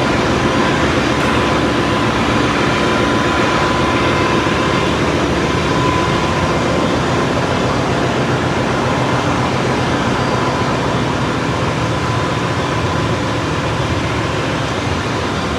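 Steady loud drone of a ship's engine-room machinery, with a faint thin whine held above it.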